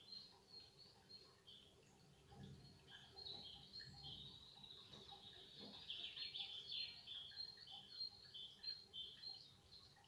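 Faint birdsong: short high chirps repeated about three times a second, with other bird calls joining around the middle.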